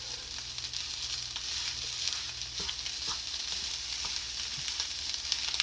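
Shrimp fried rice sizzling steadily in a hot pan, with a few light scrapes and taps of a utensil as it is stirred.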